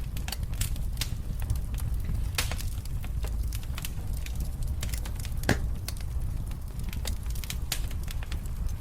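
Wood fire in a fireplace crackling, with frequent sharp pops and snaps over a steady low rumble of flame. One louder pop comes about halfway through.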